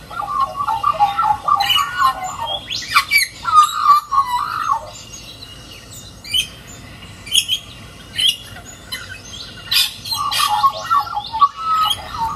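Wild birds calling: warbling, wavering song phrases in the first few seconds and again near the end, with short sharp chirps and squawks scattered in between.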